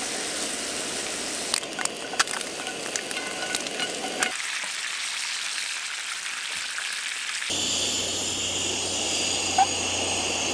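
Food sizzling in a square frying pan. Bacon fries first, with a few sharp clicks of metal tongs as it is turned, then a steak sears in hot fat. The sizzle changes abruptly twice as the shots cut.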